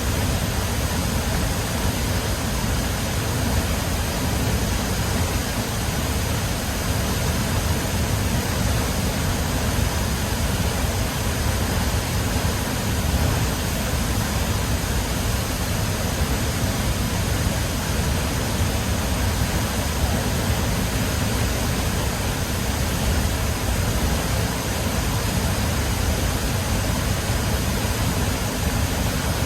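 A large waterfall crashing into its pool: a steady, unbroken roar of falling water, heaviest in the low end.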